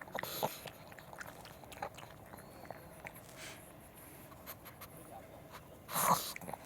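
Pug chewing and eating, small crunching bites and clicks, with a short, loud burst of noise about six seconds in.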